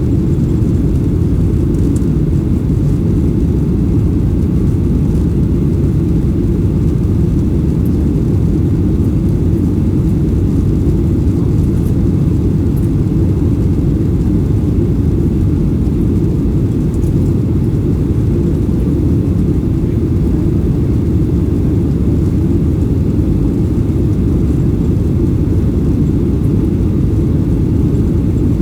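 Steady low rumble inside the cabin of a Boeing 737-800, from its CFM56 jet engines and the airflow, holding an even level throughout.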